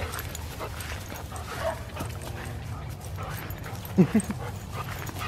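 A dog barking twice in quick succession about four seconds in, over a steady low background hum.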